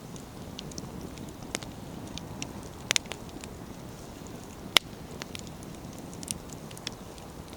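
Wood campfire burning with a low steady rush, the logs popping and crackling in irregular sharp snaps; the loudest are a quick double pop about three seconds in and a single snap near five seconds.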